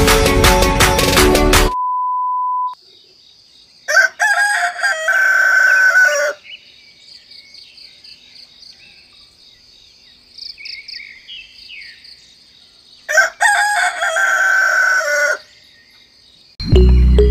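A rooster crowing twice, each crow about two and a half seconds long and some nine seconds apart, over a faint steady high-pitched tone and small bird chirps. Music cuts off at the start, followed by a one-second electronic beep, and music comes back near the end.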